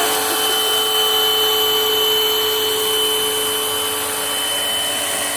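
Bosch electric pressure washer running, its non-induction (brushed) motor giving a steady whine over a hiss of spray. The lower tone of the whine weakens about three and a half seconds in.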